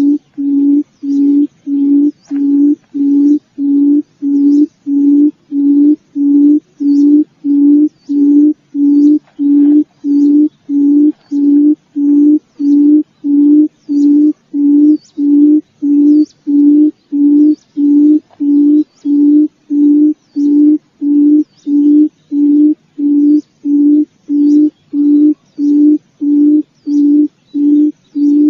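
Forest quail (puyuh hutan) calling: a low hooting note repeated at an even pace, about one and a half times a second.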